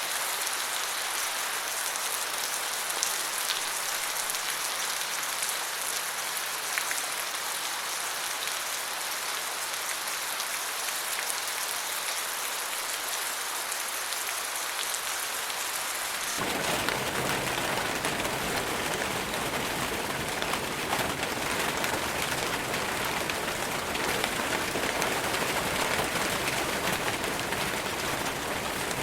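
Steady rain falling on forest leaves. About halfway through, the sound changes abruptly to a fuller, deeper and slightly louder rain.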